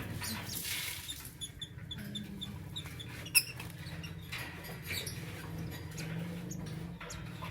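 Lovebirds chirping in short, high squeaky notes, with a quick run of chirps about a second and a half in, over a steady low hum. A single sharp click a little over three seconds in.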